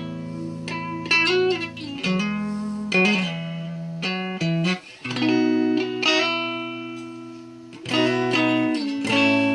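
Electric guitar, a Telecaster built from a DIY kit, played through a solid-state amp: a run of picked notes and chords, each struck anew about once a second, some left to ring and fade.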